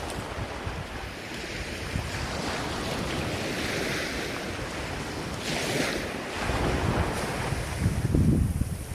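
Ocean surf: waves washing and breaking continuously, swelling about halfway through, with wind buffeting the microphone as a low rumble, strongest near the end.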